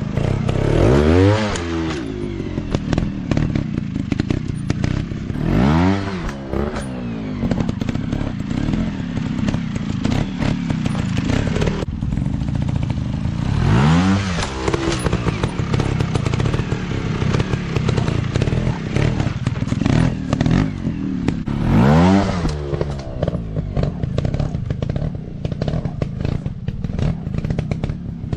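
Dirt bike engines running, revved up and back down four times, over a steady rattle and clatter of clicks.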